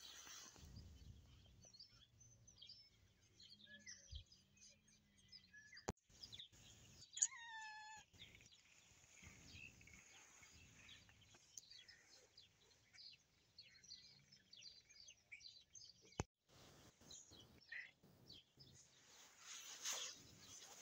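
Near silence with faint, scattered bird chirps, one short falling chirp about seven seconds in, and two light clicks.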